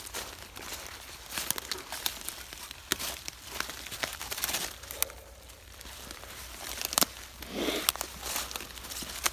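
Leaf litter and twigs crunching and crackling, with scattered sharp snaps.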